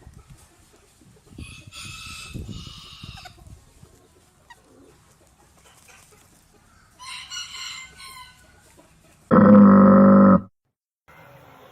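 Chickens calling: two bouts of high-pitched fowl calls, about a second apart and again a few seconds later, typical of a rooster crowing and hens clucking. Near the end comes a much louder, steady one-second call that cuts off abruptly.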